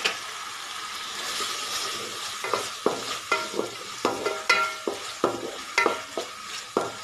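Chopped tomatoes and ground masala paste sizzling as they fry in oil in an aluminium pot. From about two and a half seconds in, a wooden spatula stirs and scrapes against the pot, each stroke giving a short ringing knock.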